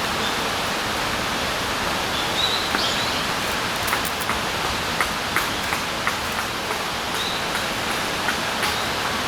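Steady rain falling in a forest, an even hiss with scattered sharper drop taps.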